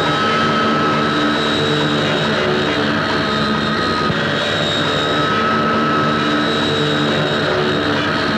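Small propeller aircraft's engine droning steadily, as heard on an old film soundtrack.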